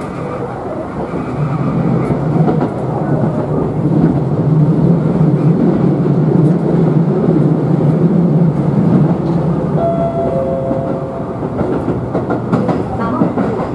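Electric commuter train of the Tobu Utsunomiya Line running, heard from inside the front car: steady rumble of wheels on rail with a low hum. A brief thin whine about ten seconds in, then a quick run of clicks as the wheels cross the points at the junction near the end.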